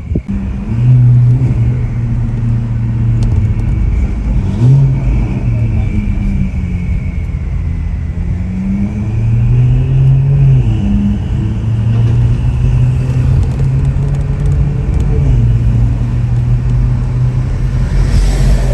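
Ferrari 488 Pista's twin-turbo V8 running through an aftermarket Ryft exhaust while driving; the engine note holds steady and rises and drops in pitch a few times.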